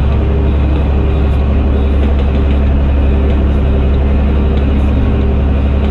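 Fendt Favorit 926 Vario tractor's six-cylinder diesel running steadily through an open, unsilenced exhaust, with a deep, even drone.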